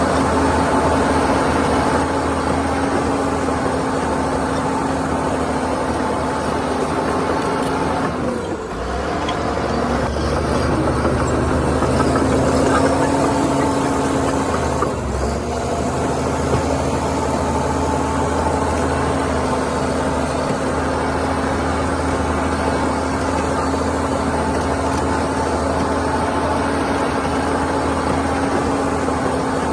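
Heavy diesel earthmoving machinery running steadily under load, a deep rumble with a constant whine over it. The sound dips briefly twice, about eight and fifteen seconds in, then settles back to the same steady note.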